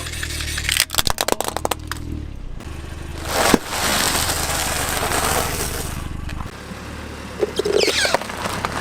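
A car's engine running low while its tyre rolls over and crushes objects: a run of crackling snaps about a second in, then a loud crack at about three and a half seconds, followed by a few seconds of rushing noise.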